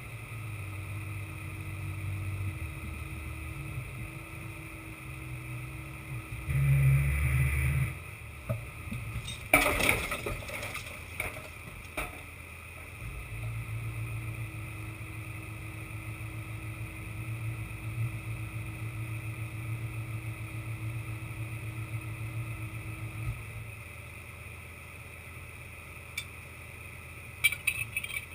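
Heavy truck diesel engine running during a truck recovery lift, its speed rising and falling, with a louder surge about seven seconds in. Sharp metallic knocks and clanks come around ten seconds in, and a few clicks near the end.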